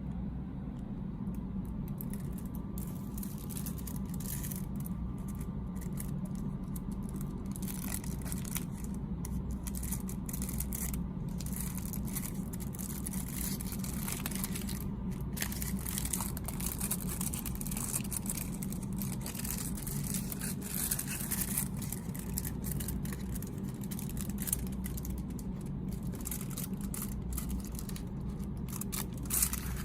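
Snack packaging being handled: scattered scrapes, rustles and small clicks over a steady low hum.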